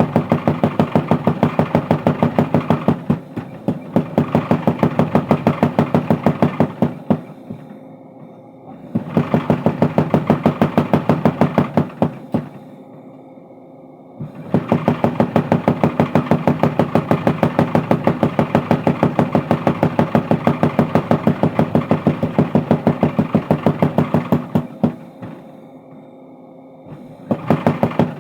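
Mechanical power hammer pounding hot steel in rapid, even strikes while forging a crowbar, running in several bursts separated by short pauses.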